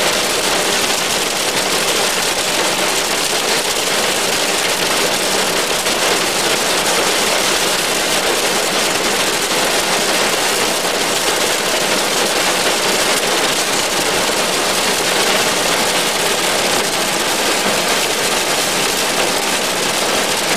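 Hail drumming steadily and densely on the roof and windows of a car, heard from inside the cabin.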